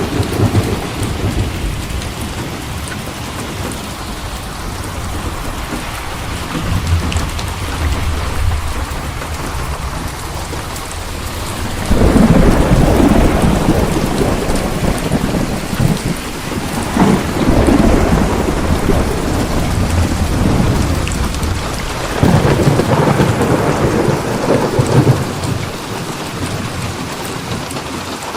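Thunderstorm: steady heavy rain with rolling thunder, loud rumbles breaking out about twelve seconds in and twice more later, each lasting several seconds.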